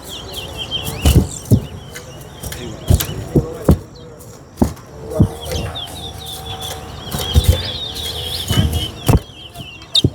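Caged towa-towa (chestnut-bellied seed finch) twittering in quick, high chirps, with scattered sharp knocks.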